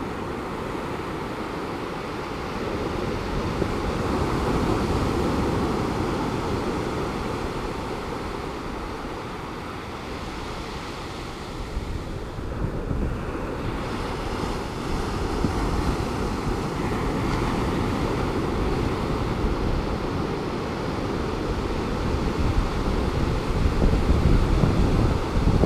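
Calm Pacific Ocean surf breaking and washing in, a steady rush that swells and eases slowly, with wind buffeting the microphone, most strongly near the end.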